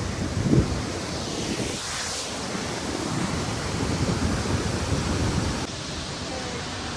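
Jang waterfall, a steady roar of falling water, with gusts of wind buffeting the microphone about half a second in and again through the middle.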